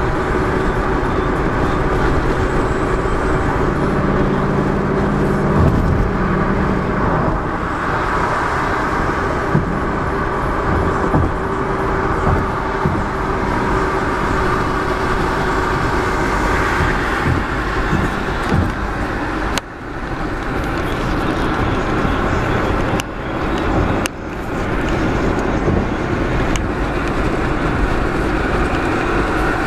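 Steady road and engine noise inside a moving car's cabin, with a few sudden brief dips in loudness in the second half.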